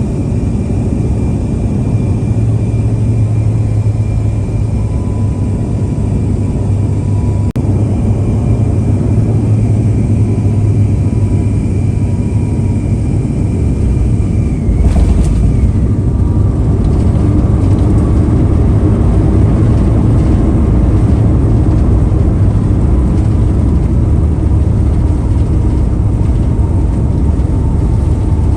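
Airbus A350-900 cabin noise: a loud, steady rumble of engines and airflow with a faint high whine. About halfway in, the whine drops in pitch and the rumble grows a little louder.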